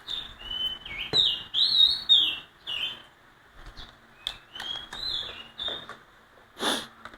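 A small songbird chirping and warbling in quick runs of short notes that slide up and down, pausing briefly in the middle, with a few sharp clicks and a knock of handling mixed in.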